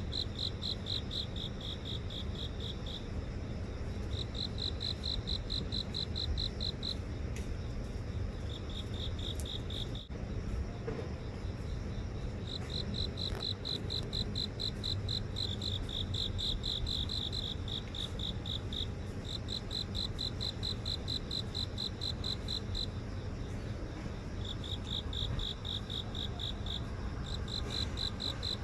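Crickets chirping in rapid pulsed trills, each train lasting a few seconds with short pauses between, over a low steady background rumble.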